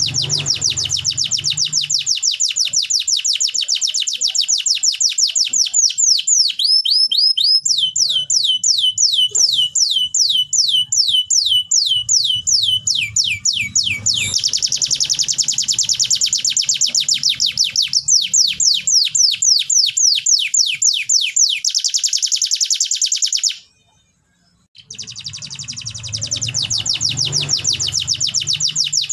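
Domestic canary singing a long song of rapid repeated notes in tours, switching every few seconds between fast trills and slower down-slurred notes. The song breaks off for about a second near the end, then resumes with a fast trill.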